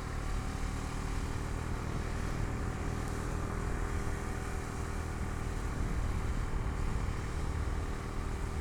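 Bajaj Dominar 250's single-cylinder engine running at a steady cruise, heard from the pillion seat, its note holding level with no revving, under an even rush of riding noise.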